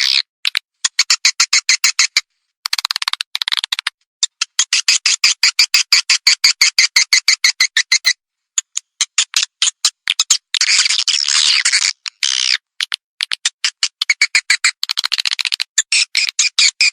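Swiftlet calling sound, the lure call played to draw swiftlets into a nest house: rapid trains of high chirps and twitters in runs of a second or several, broken by short pauses, with a denser trilling stretch about two-thirds of the way through.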